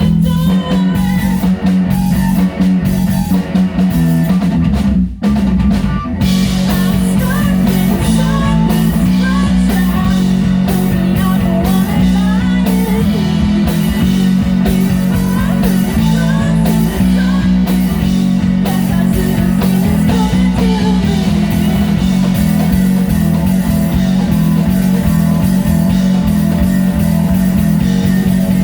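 A live rock band playing a song, with guitars and a drum kit. The band breaks off for an instant about five seconds in and comes back fuller.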